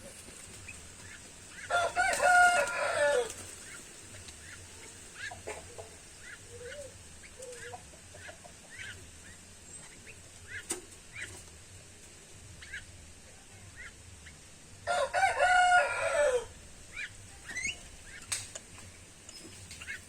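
A rooster crowing twice, each crow about a second and a half long, the first about two seconds in and the second near fifteen seconds. Short, faint bird chirps come and go between the crows.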